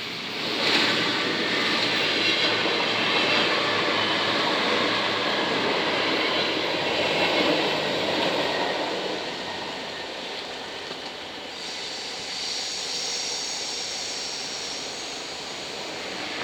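SGMm Sprinter electric multiple unit passing over a level crossing. Its wheels on the rails make a loud rush that starts under a second in and eases after about ten seconds. In the last few seconds a high, steady ringing is heard over the fading rush.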